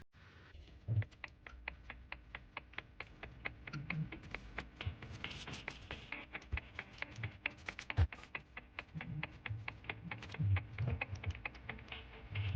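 A quick run of light, sharp taps and clicks, several a second, with a few duller knocks among them.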